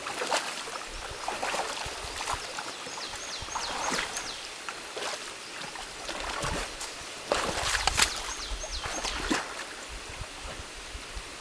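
Stream water running and trickling through a beaver dam being taken apart by hand, with repeated splashes and knocks as sticks and mud are pulled out, busiest near the end. A bird gives a short run of about four quick whistled notes about three seconds in.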